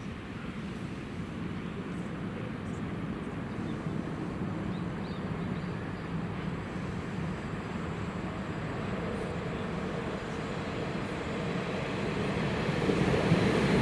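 Electric train rumbling along the line, a steady rail rumble that grows louder near the end as the train comes closer.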